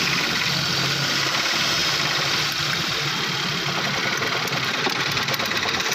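Suzuki Every's 660cc three-cylinder turbo engine idling while missing on one cylinder, a misfire caused by a faulty number-2 ignition coil. Fast regular ticking comes in near the end.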